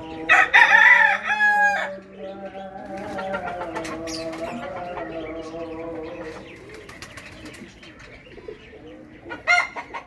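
A rooster crows once, loud, about half a second in, with other birds calling in the background and a short sharp call near the end.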